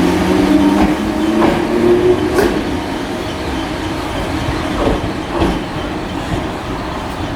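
Electric multiple unit train moving at the platform: a steady motor hum fades out about two seconds in, leaving a rumble with wheels clicking over rail joints now and then.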